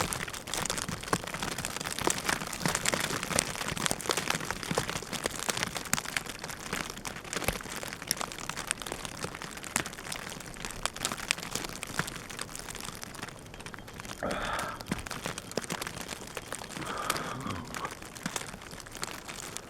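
Dense, irregular crackling and crinkling close to the microphone, with a few short breathy sounds near the end.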